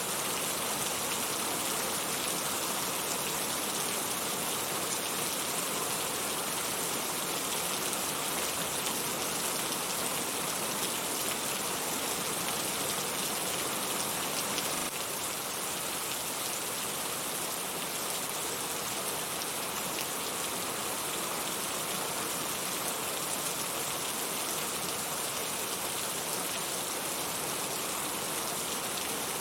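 Heavy rain falling steadily, with no thunder. The overall level dips slightly about halfway through.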